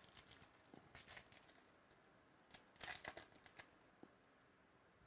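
Faint rustling and crinkling of trading cards being handled and slid through the hands, in short bursts about one and three seconds in, with a few light clicks.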